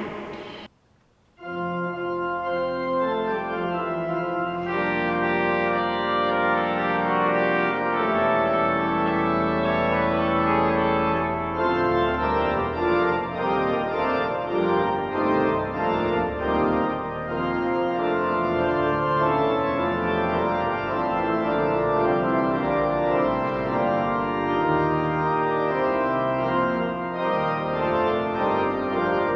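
The Salt Lake Tabernacle pipe organ playing a recital piece. After a brief silent gap about a second in, it sounds full sustained chords over deep pedal notes, the chords changing every second or so.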